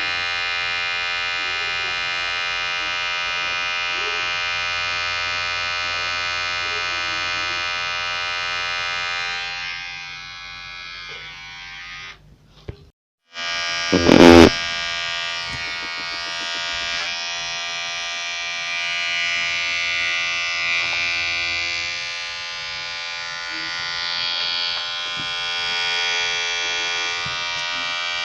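Electric hair clipper buzzing steadily, a dense stack of tones. The buzz fades just before halfway, cuts out for about a second, and a short loud burst comes at about fourteen seconds before the buzzing starts again.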